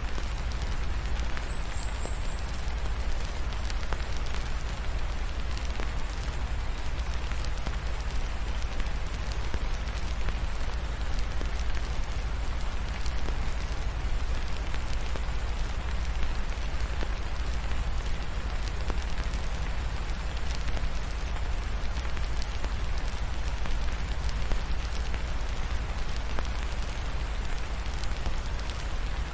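Wood fire crackling in a fireplace with a deep steady rumble, over an even hiss of steady rain. The fire layer cuts off suddenly at the end.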